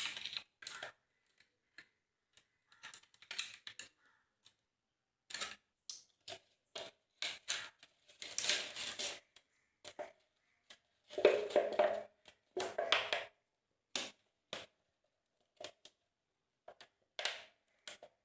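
Thin plastic bottles being handled and pressed together while they are glued, giving scattered clicks and crackles, with short pauses between them.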